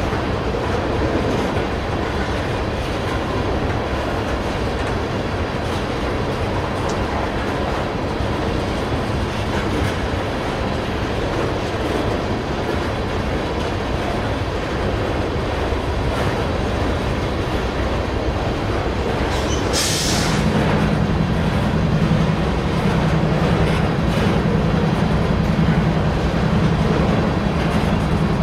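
Loaded crude-oil tank cars of a long freight train rolling steadily past. About twenty seconds in there is a short hiss, and a steady low drone comes in and holds through the end.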